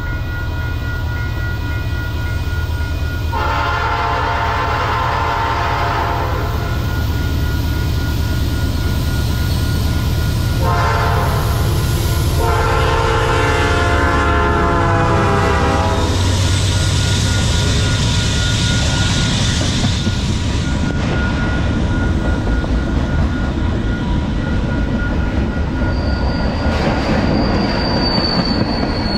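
CP 9374's K5HL air horn, on a GE AC4400CW locomotive, sounds a long blast, then a short and a long, as the freight nears the grade crossing. The locomotive then rumbles past, followed by freight cars rolling by on jointed rail, with a wheel squeal near the end.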